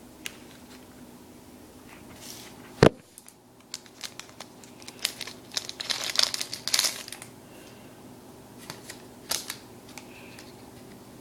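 Foil wrapper of a Yu-Gi-Oh! Cosmo Blazer booster pack being torn open and crinkled by hand, with one sharp snap about three seconds in and bursts of crinkling a few seconds later.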